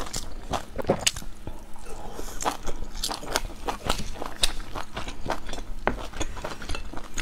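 A person chewing food close to a clip-on microphone, with frequent irregular mouth clicks and lip smacks.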